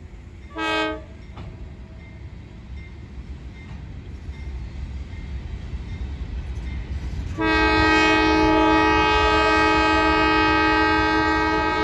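Diesel locomotive horn on an empty coal train. It gives one short toot about half a second in, then a long loud blast starting about two-thirds of the way through. Underneath, the low rumble of the approaching train slowly grows.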